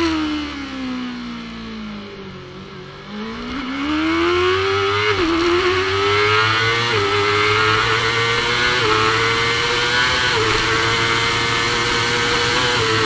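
Supersport racing motorcycle engine, heard onboard, dropping in pitch as the bike slows, then accelerating hard up through the gears with about five quick upshifts.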